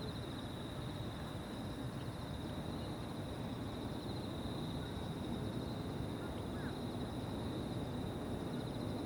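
Insects chirping in a continuous high trill that holds steady throughout, over a low steady rumble of distant background noise.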